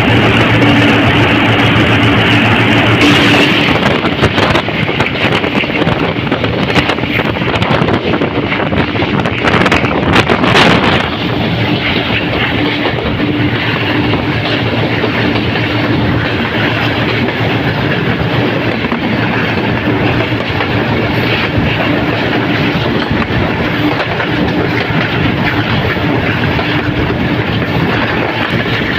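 Diesel-hauled passenger train running, heard from aboard: wheels clattering over rail joints with a steady rumble. The rattling is heavier and loudest around ten seconds in, then settles into a steadier rumble.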